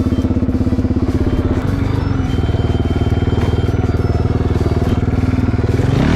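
Motorcycle engine running steadily with a fast, even pulsing beat, shifting slightly about a second and a half in and swelling briefly near the end.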